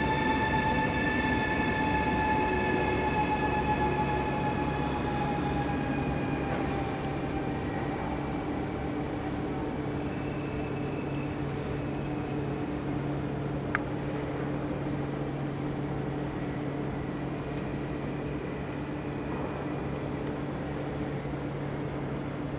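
NS Fyra V250 high-speed electric train moving slowly: a whine of several tones drifts slowly lower and fades over the first several seconds, over a steady low hum and rumble. There is one brief click about two-thirds of the way through.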